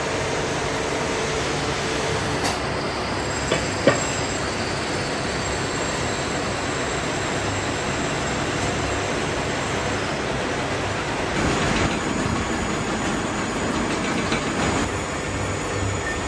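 Steady, noisy din of heavy workshop machinery running, with two sharp knocks close together about four seconds in.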